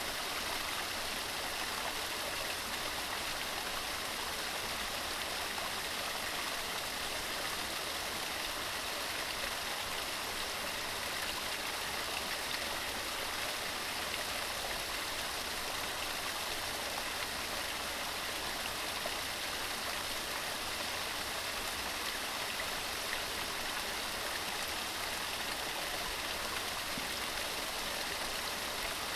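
Mountain stream running over rocks, a steady even rush of water.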